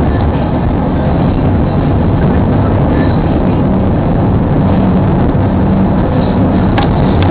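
Steady, loud rumble of a car driving on the highway, engine and road noise heard from inside the vehicle.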